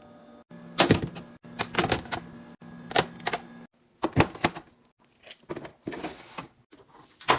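Hard plastic and glass containers being handled and set down: a string of sharp, irregular clicks and knocks, with a sudden cut about halfway through.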